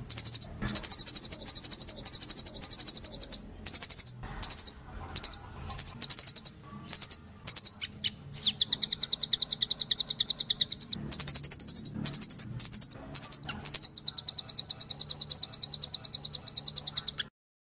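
Blue nuthatch (rambatan doraemon) calling in rapid trills of high, sharp notes, repeated many times a second. Long runs alternate with shorter broken phrases, and the calls stop just before the end.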